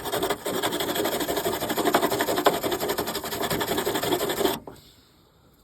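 Welding arc crackling steadily on the snowmobile's broken seat bracket, a dense sizzle that stops abruptly about four and a half seconds in as the weld is paused.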